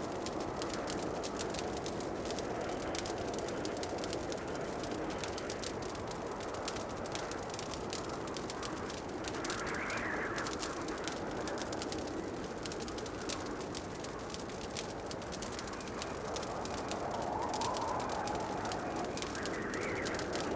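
Log fire crackling steadily in a fireplace, with dense irregular small pops, over a continuous soft rushing background that swells gently a few times.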